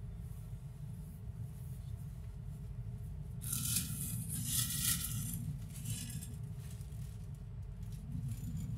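Passenger train running, a steady low rumble heard from inside the carriage. From about three and a half seconds in to about six seconds, a burst of higher-pitched rattling and hissing rises over it.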